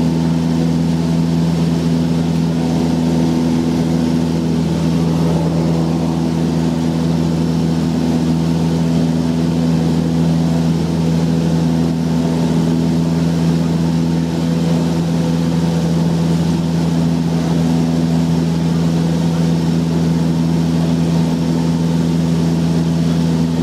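Cessna 172's piston engine and propeller droning steadily at an unchanging pitch, heard inside the cabin in flight.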